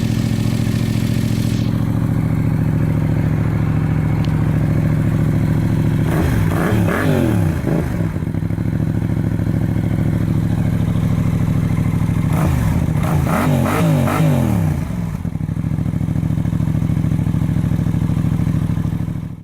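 Yamaha MT-07's parallel-twin engine idling through its exhaust, blipped twice, about six and about twelve seconds in, each rev climbing and falling back over roughly two seconds.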